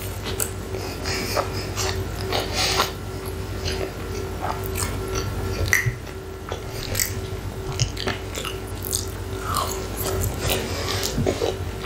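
Close-miked chewing and wet mouth sounds of someone eating cheesy, chilli-sauced hot chips off a fork, with irregular small clicks and smacks throughout. A faint steady hum runs underneath.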